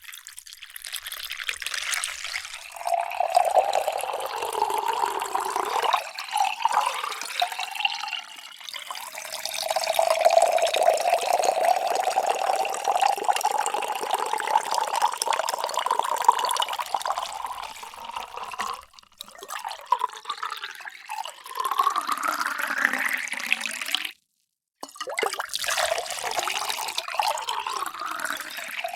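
Water being poured into a container, its splashing tone rising in pitch as the vessel fills. This happens as two or three separate pours, with a brief silent break about 24 seconds in before the next pour starts.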